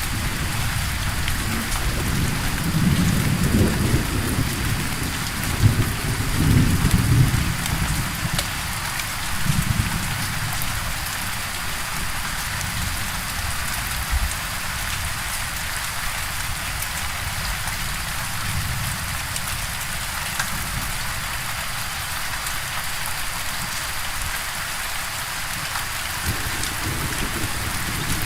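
Steady heavy rain hissing, with rolling thunder rumbling low in the first third and fading to a faint low rumble.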